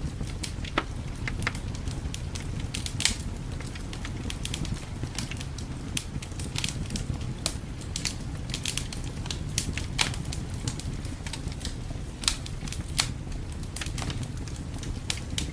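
Wood fire crackling in a fireplace, with irregular sharp pops and snaps, a few louder ones standing out, over a steady low rumble.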